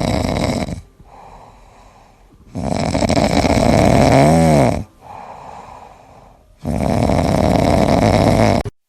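A pet snoring loudly: three long noisy breaths about four seconds apart, with quieter breaths between them. The middle breath carries a brief wavering tone.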